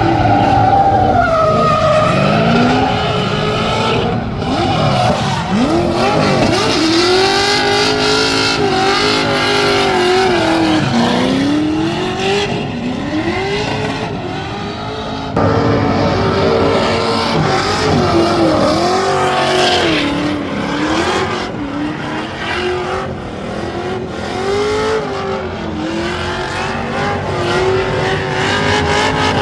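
Ferrari engine revving hard under drifting, its pitch swooping up and down with the throttle, over tyre squeal. About halfway through the sound jumps abruptly in level.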